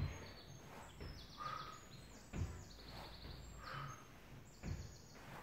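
Faint birdsong: repeated high chirps and quick trills. Under it, soft low thumps come about every two seconds, with a breathy exhale between them, from a person doing crunch reps on an exercise mat.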